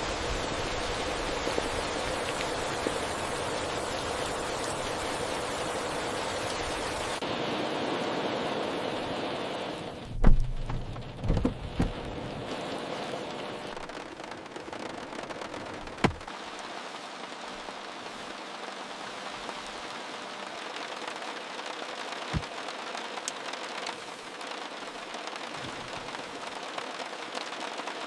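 Steady heavy rain falling. About ten seconds in there is a loud low boom followed by a few smaller thuds, and later two sharp single clicks.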